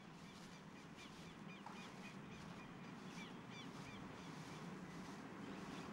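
Faint outdoor ambience: a small bird chirping in a rapid series of short, high chirps that stops a little past halfway, over a steady low background hum that grows slowly louder.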